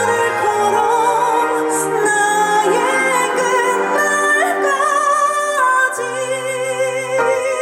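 A woman singing a slow ballad live into a microphone, holding long notes with vibrato over band accompaniment.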